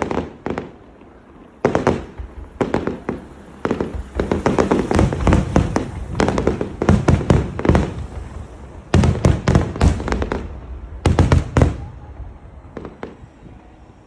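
Aerial fireworks shells bursting in quick succession, a barrage of sharp bangs that comes in dense volleys through the middle and thins out near the end.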